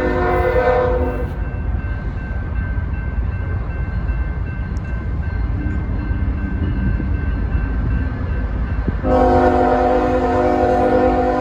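Diesel locomotive air horn on CN freight train M383 sounding a multi-note chord: one blast ends about a second in and a second long blast starts near the end. A steady low rumble of the passing train runs beneath it.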